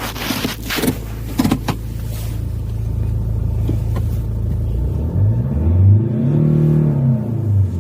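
2004 Hyundai Santa Fe engine running at a steady idle. About five seconds in it is revved up and falls back to idle.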